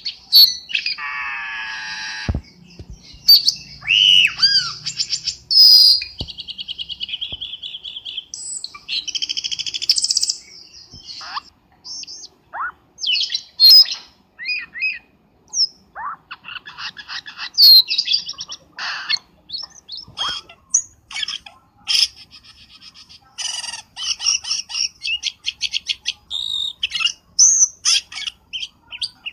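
Cucak keling bird calling: a varied, almost unbroken string of whistled glides, harsh buzzy phrases and short sharp chirps, ending in a quick run of clipped notes. This is a lure (pikat) call recording.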